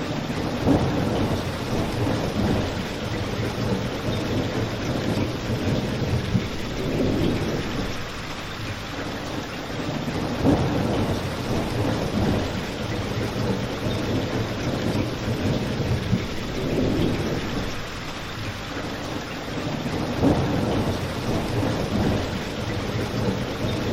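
Steady rain, with a low rumble that swells and fades every few seconds and a few sharp pops, three of them standing out, from a crackling fireplace.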